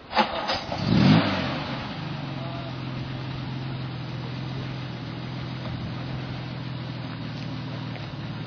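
Vintage car engine revving up briefly about a second in, then settling to a steady idle.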